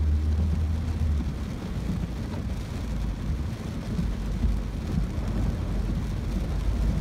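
Ford Focus driving through heavy rain, heard from inside the cabin: a steady low rumble of engine and tyres on the flooded road under an even hiss of rain on the car.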